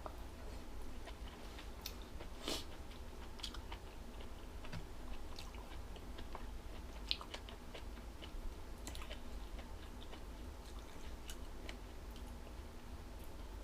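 A person chewing crunchy, springy jellyfish close to the microphone: scattered crisp clicks and crunches over a steady low hum.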